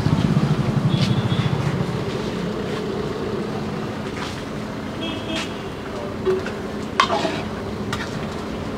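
Chicken curry frying in a large pot, sizzling steadily as it is stirred, with a few sharp metal clinks of the ladle. A low pulsing rumble sits under the first two seconds.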